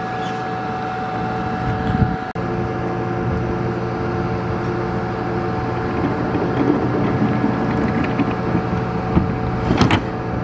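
KTX high-speed train's electrical equipment humming steadily with several constant tones, with a brief click about two seconds in. A sharp clunk near the end as the coach door shuts.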